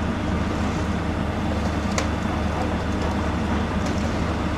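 Diesel engines of heavy demolition excavators running steadily with a low drone, and a single sharp knock about two seconds in.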